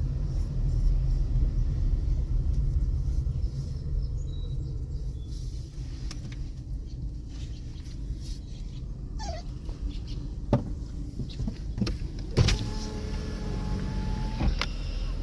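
Low rumble of a car heard from inside the cabin, easing off about four or five seconds in. A few sharp clicks follow in the second half, and near the end a steady tone sounds for about two seconds.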